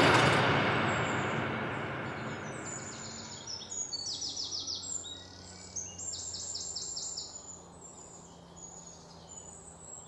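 The last note of the music rings out and fades over the first few seconds, then birds sing: a run of quick trills of rapidly repeated high notes.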